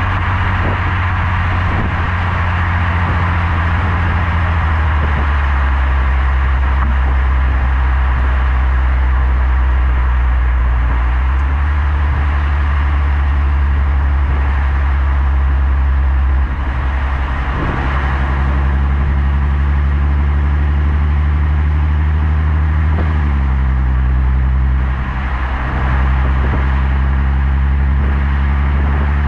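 Exhaust of a Skoda Superb's 3.6 FSI VR6 engine through a Gestec cat-back system, driving at a steady low drone. The note holds steady, then steps to a new pitch several times, with short dips in loudness around the middle and near the end, as the six-speed DSG changes gear.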